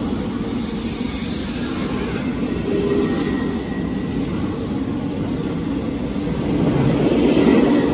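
Regio2N double-deck electric multiple unit (Z57000) rolling past along the platform: a steady rumble of wheels and running gear, growing a little louder about seven seconds in.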